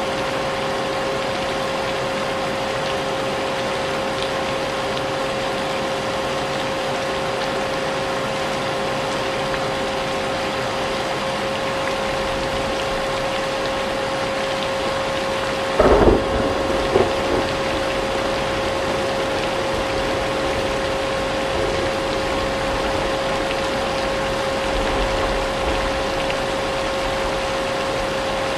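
A vacuum cleaner running steadily with a constant motor whine, mixed with rain. About sixteen seconds in there is a sudden loud crack, followed by a smaller one a second later.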